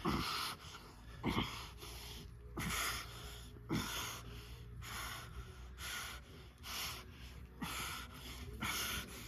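Heavy breathing of people grappling, a hard breath about every second, over a low steady hum.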